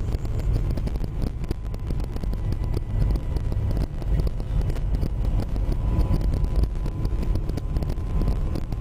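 Car driving: a steady low road and engine rumble with small knocks and bumps throughout.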